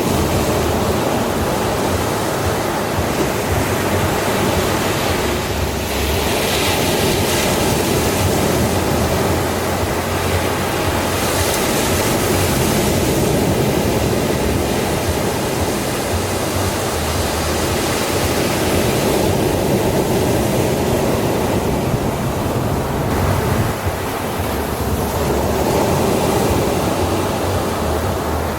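Ocean surf washing onto a sandy beach: a continuous rushing hiss that swells a few times as waves break and run up the sand.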